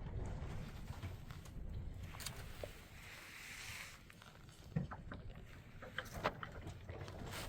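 Household handling noises: scattered knocks and clatter, the sharpest about five and six seconds in, over a steady low rumble, with a short rushing hiss about three seconds in.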